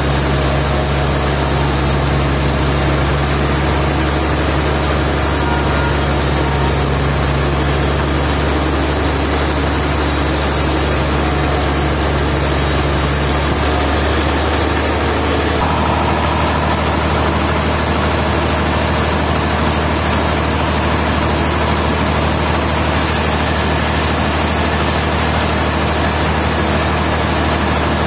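Sawmill machinery running steadily with a low engine drone. Its tone changes abruptly about halfway through.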